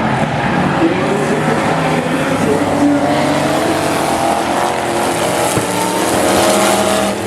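Several hit-to-pass demo race cars' engines running together on a speedway track, with engine notes rising and falling as they rev, loud throughout.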